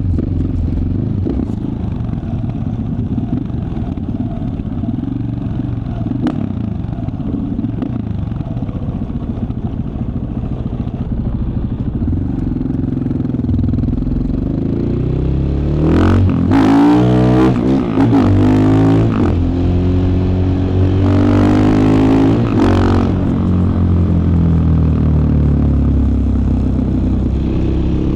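2015 KTM 690 Enduro R's single-cylinder engine running at low, steady revs for the first half. After about sixteen seconds it pulls up through the revs in several rising sweeps that drop back between them, louder as the bike accelerates.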